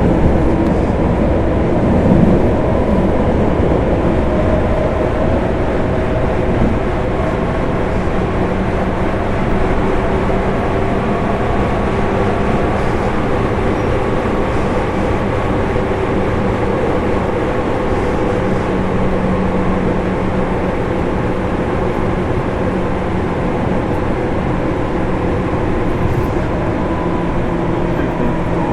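Running noise inside a JR 205 series electric motor car with MT61 self-ventilated traction motors, heard on board: a steady rumble with several steady whining tones over it, holding at an even level throughout.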